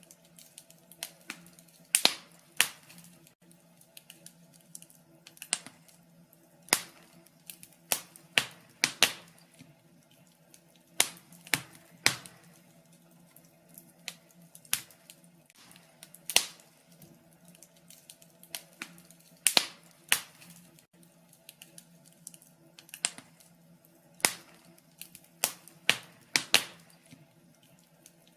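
Wood fire crackling in a fireplace: irregular sharp pops and snaps, roughly one a second, some much louder than others, over a faint steady low hum.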